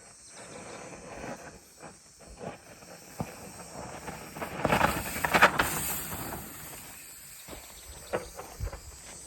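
Bicycle rolling down a rough dirt trail: tyre noise on loose ground and the bike rattling over bumps, with a loud patch of hard knocks and clatter about five seconds in.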